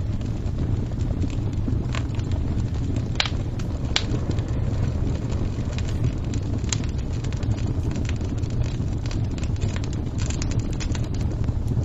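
Wood fire crackling: a steady low rumble of burning, with sharp pops and snaps at irregular moments.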